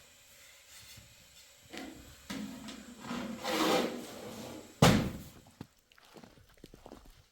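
Scraping and rubbing that swells for a couple of seconds, then one sharp, loud knock about five seconds in, followed by a few faint clicks.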